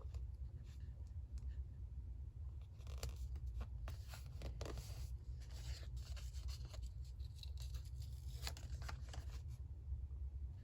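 Paper being cut and handled for a journal collage: irregular clusters of short, crisp, scratchy snips and rustles over a steady low hum.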